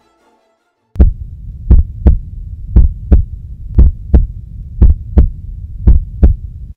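Heartbeat sound effect: low double thumps about once a second over a steady low hum. It starts about a second in and cuts off suddenly near the end.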